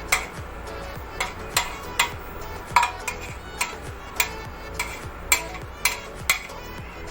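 A metal spoon clinking and knocking against a metal cooking pot while stirring rice into the biryani mixture: sharp, irregular strikes, about two a second, each ringing briefly.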